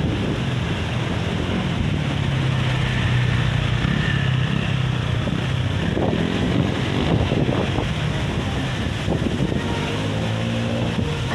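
Strong gusting sea wind buffeting the microphone in a loud, rumbling rush, with surf beneath it. A low hum rises through the rumble twice.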